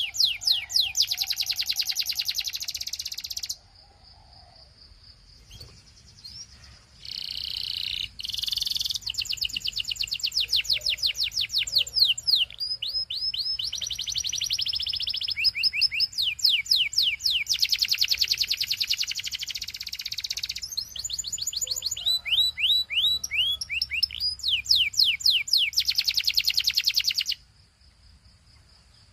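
A canary singing in long phrases of fast repeated high notes, rolling trills and quick downward sweeps. It pauses for a few seconds early on and stops shortly before the end.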